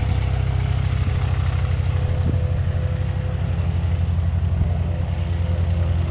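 A Cessna 172 Skyhawk's propeller-driven piston engine running as a steady low drone.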